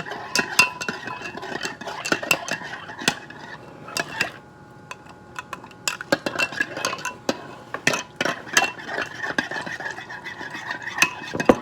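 Spoon stirring in a cup of dissolving gelatin mix, clinking and scraping against the sides in quick repeated taps, with a short quieter lull about halfway through.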